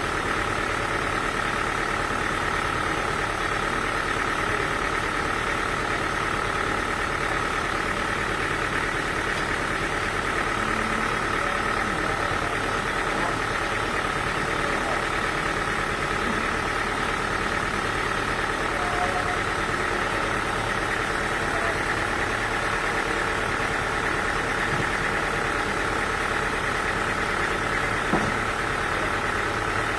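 Sawmill machinery running steadily at an even pitch, with a constant high whine over the drone. A single short tick comes near the end.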